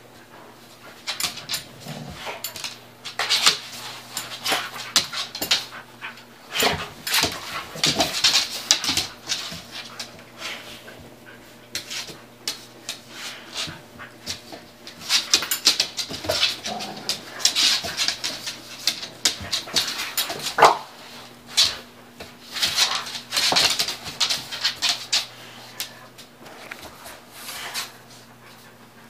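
Two pit bulls play-fighting: repeated bursts of scuffling and clicking with short dog whimpers and panting, and a sharper cry about two-thirds of the way through.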